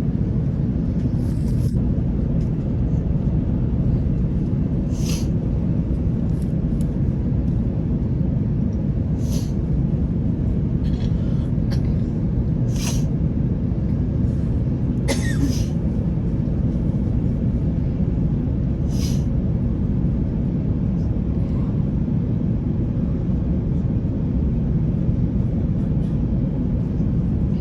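Steady low roar of an airliner cabin in cruise, the engines and rushing air. A few short, faint hissy ticks sound a few seconds apart over it.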